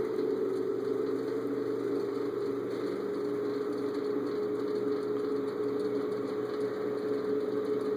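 1994 Arvin Heat Stream 1500-watt fan-forced space heater running, its small fan motor giving a steady hum over the rush of air.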